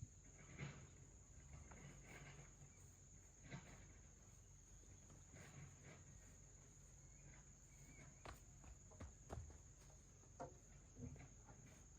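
Near silence: faint outdoor ambience with a steady high-pitched insect-like whine, broken by scattered soft taps and steps.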